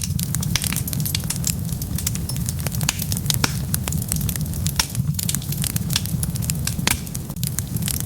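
Wood fire burning with a steady low rumble and dense, continuous sharp crackles and pops.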